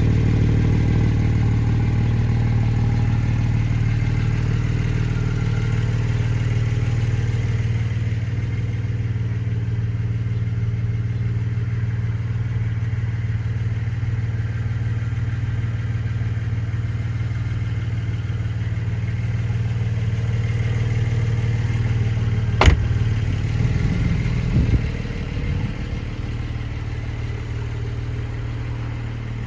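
2023 Porsche 718 Boxster Spyder's naturally aspirated 4.0-litre flat-six idling steadily. A single sharp click comes about three-quarters of the way through, followed briefly by a few faint knocks.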